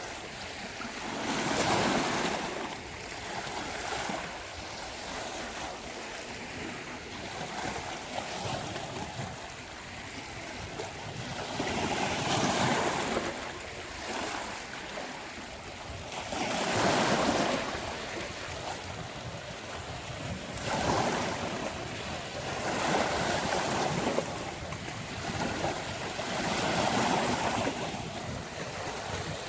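Sea waves breaking on a beach, the surf rising in a swell every few seconds and easing back between breakers, with some wind on the microphone.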